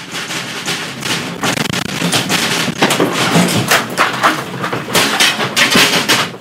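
Earthquake shaking a house: loud, continuous rattling and banging of the building and its contents, with many sharp knocks and clatters that grow stronger through the middle and latter part.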